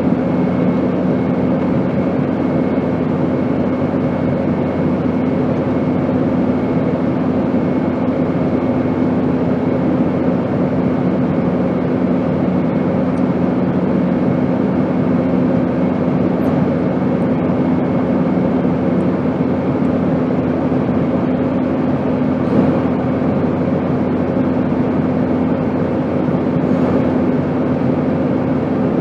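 Steady airplane drone: an even rushing noise with a constant low hum, unchanging throughout.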